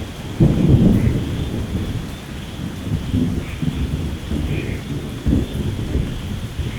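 Thunder rumbling over steady rain. The rumble breaks in about half a second in, rolls on in uneven swells, and grows louder again near the end.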